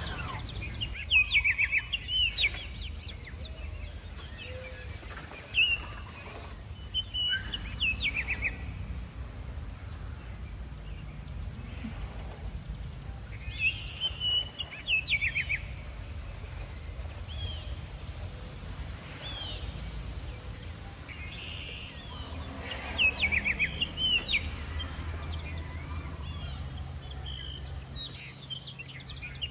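Birds chirping in short, quick trills every few seconds over a steady low rumble.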